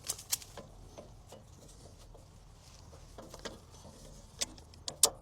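Scattered light clicks and taps of a battery cable and its terminal being handled, with the sharpest couple of knocks near the end.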